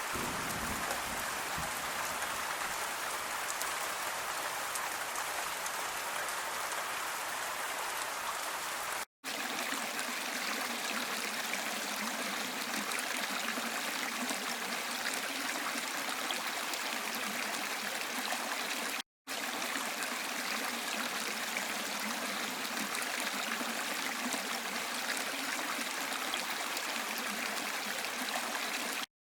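Steady rushing water of a waterfall and stream mixed with gentle rain, an even unbroken noise that cuts out completely for a split second twice, about a third and two thirds of the way through.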